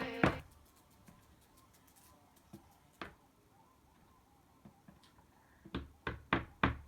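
Short sharp taps: a couple of isolated clicks, then a quick run of about five taps, roughly three a second, near the end.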